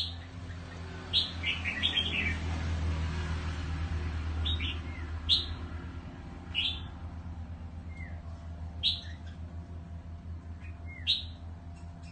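Birds chirping: short, high chirps that fall in pitch, one every second or two with a quick run of them about two seconds in, over a steady low hum.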